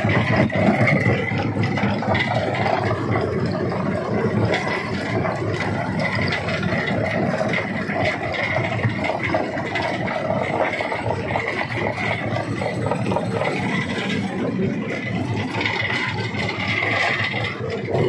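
Stone crusher running, with a steady mechanical rattle and scraping of rock being broken.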